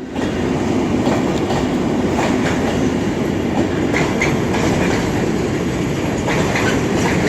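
Long container freight train, hauled by two class 90 electric locomotives, running through the station: a steady rumble of wagon wheels on the rails with occasional clicks.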